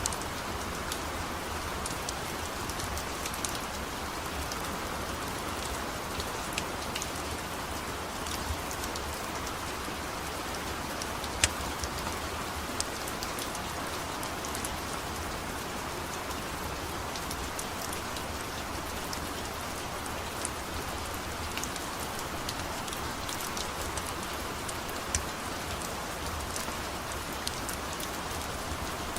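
Steady rain falling, with a wood fire crackling now and then in sharp, scattered pops.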